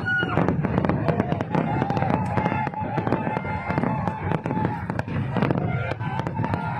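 Fireworks display: dense, rapid pops, bangs and crackles overlapping without a break. A thin held whistle-like tone runs beneath them through much of the middle.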